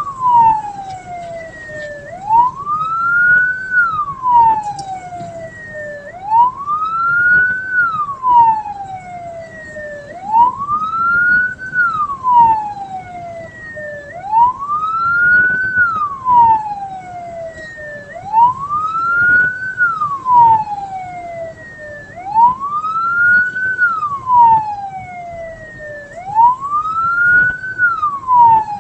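Vehicle siren in a slow wail, rising and falling about once every four seconds, over a low road rumble.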